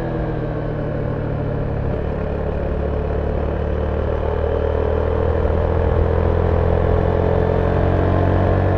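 Zontes 310V's single-cylinder engine through its stock exhaust, heard on board while riding. The pitch eases off early on, then climbs and grows louder over the second half as the bike accelerates.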